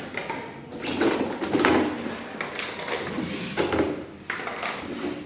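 Plastic toilet-cistern fittings being handled and fitted into the tank: an irregular series of knocks, clicks and scrapes.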